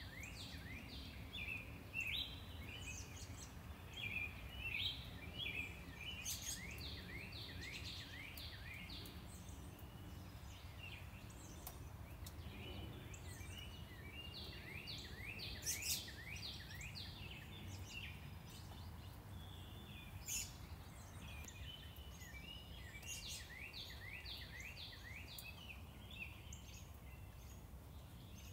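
A songbird singing bouts of quick, repeated down-slurred notes, over a steady low rumble of distant traffic.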